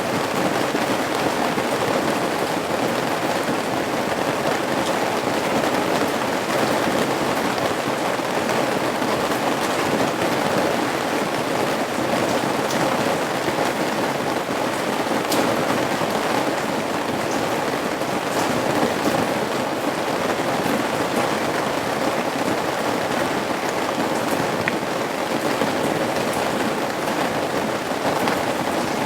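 Steady rain falling on and dripping off a roof's eaves: a dense, even hiss with scattered sharp drop ticks.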